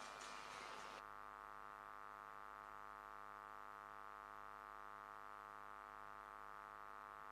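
Near silence: a faint steady hum, with a light hiss that drops away about a second in.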